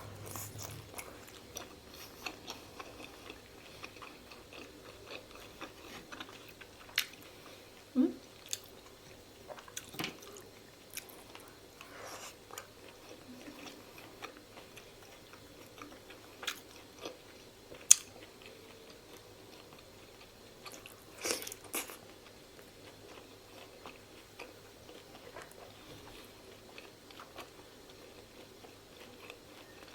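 Close-miked chewing and biting of pork momo dumplings: soft wet chewing with scattered sharp mouth clicks, a few louder around the middle.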